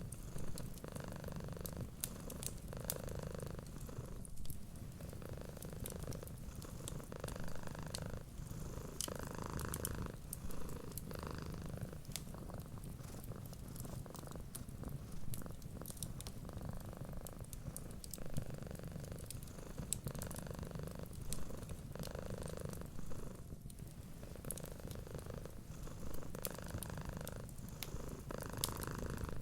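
Domestic cat purring steadily, swelling and easing with each breath every second or two, over scattered small crackles and pops of a wood fire.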